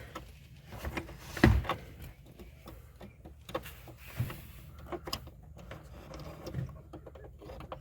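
Scattered small clicks and knocks of hand work on a truck's accelerator pedal assembly while a part is pushed into place by feel, with one louder knock about a second and a half in.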